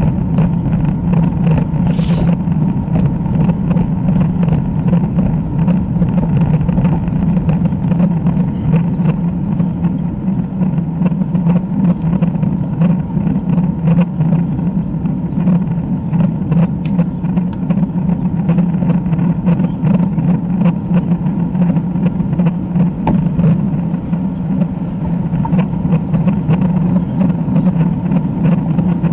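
Steady, loud wind rumble buffeting the microphone of a camera riding along on a road bicycle at speed.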